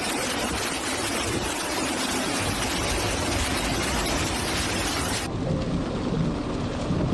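Heavy rain pouring down, a dense, steady hiss. About five seconds in it cuts off abruptly into a duller, lower rumble.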